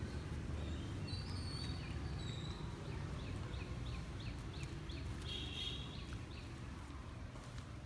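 Steady low rumble of background noise, with short high chirps from an animal, a run of them about three a second in the middle.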